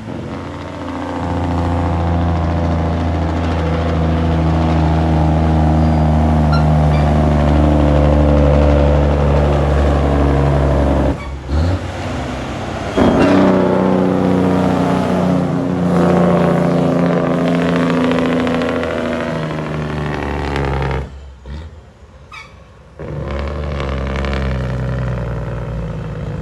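Old cabover semi truck's diesel engine running loud under load. The engine sound breaks off briefly about eleven seconds in and drops away again for a couple of seconds near twenty-one seconds.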